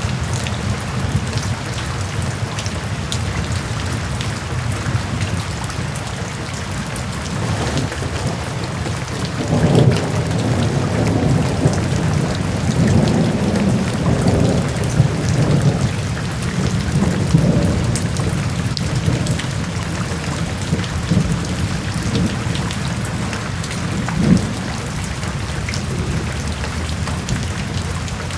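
Steady rain hissing, with thunder rumbling low through the middle stretch and a short further rumble near the end.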